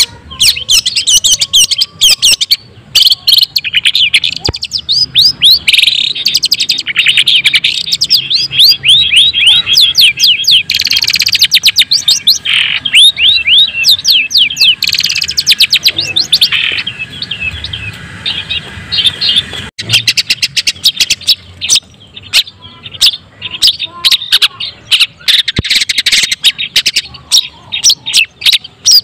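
Long-tailed shrike (white-breasted cendet) singing a fast, continuous run of high chips and sweeping notes, with a few short breaks.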